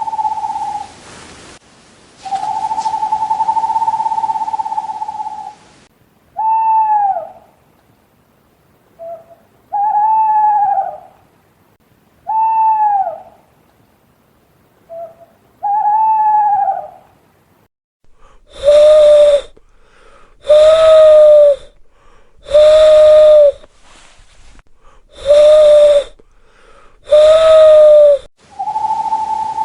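Owl calls of different kinds in turn. First a long, steady whistled note, broken once and held again for a few seconds. Then four short calls that fall away at the end, a few seconds apart, with small notes between them. Last, five lower hoots of about a second each, evenly spaced.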